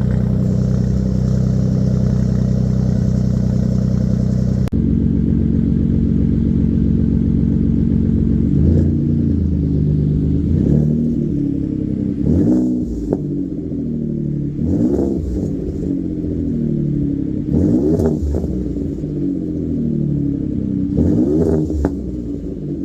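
2018 Ford F-150's 3.5 EcoBoost twin-turbo V6 idling and then revved in neutral through an AWE 0FG exhaust with a Borla resonator in a 3-inch mid-pipe. It idles steadily at first, with an abrupt change about five seconds in, then gets about six quick throttle blips, each rising and falling in pitch, every two to three seconds.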